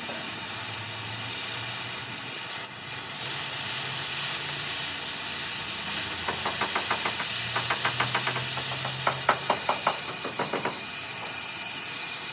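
Steady high hiss from metalwork on a truck chassis, with a low hum that comes and goes. About halfway through come several runs of rapid taps, about ten a second.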